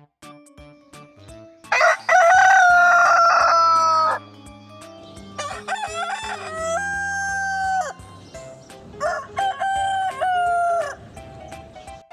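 Rooster crowing three times, each crow a long call of about two seconds, over quieter background music with a steady ticking beat.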